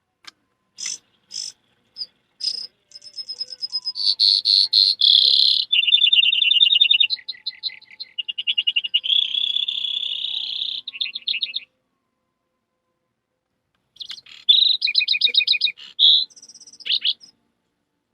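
A person imitating a songbird with whistled and voiced chirps and trills: a few short chirps, then a long run of rapid, high trills and warbles, a pause of a couple of seconds, then another burst of quick trills and chirps.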